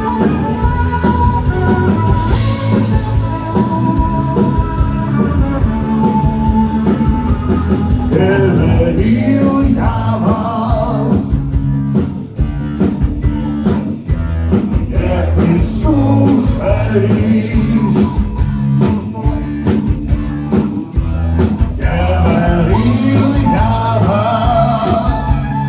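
Rock band playing live: a singing voice over electric guitar and drums, with a steady beat.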